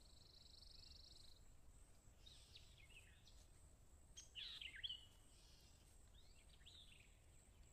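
Near silence: faint outdoor ambience with a few short, high bird chirps in the middle, the clearest about four and a half seconds in.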